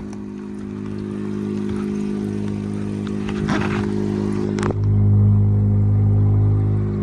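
Engine running steadily at idle, with a steady low hum; the hum gets louder from about five seconds in.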